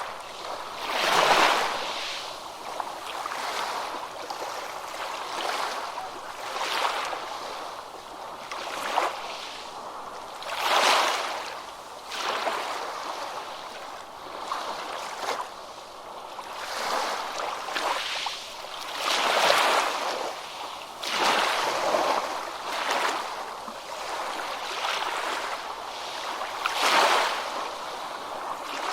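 Ocean waves breaking and washing up a beach, a steady hiss that swells with each wave every few seconds and then fades.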